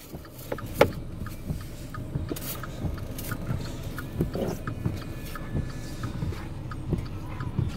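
Car driving through deep snow, heard from inside the cabin: a steady low rumble of engine and tyres with scattered light ticks and clicks.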